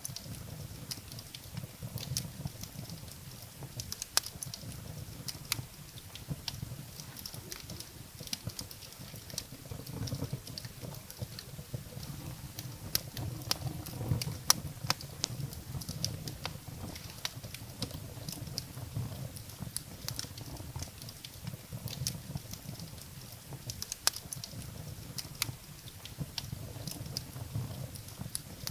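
Wood fire burning in a fireplace, firewood crackling with frequent sharp irregular pops over a low rumble of the flames.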